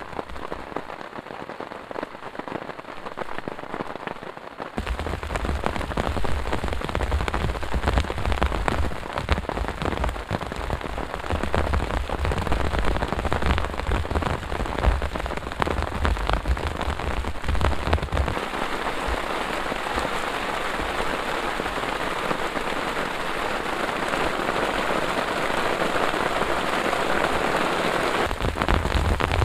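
Heavy rain falling steadily, dense drops pattering on surfaces, with a deep low rumble underneath from about five seconds in to about eighteen seconds in.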